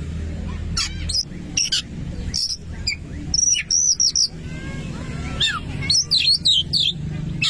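Oriental magpie-robin (kacer) singing a rapid, varied run of loud whistles, chirps and gliding notes, over a low steady hum.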